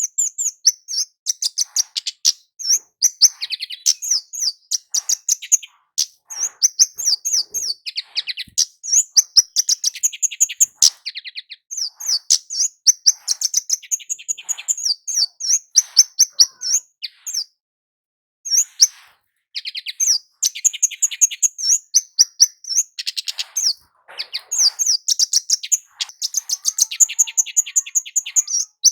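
Scarlet-headed flowerpecker (kemade jawa) singing: long runs of very high, rapid, sharp chirps, broken by a brief pause about two-thirds of the way through.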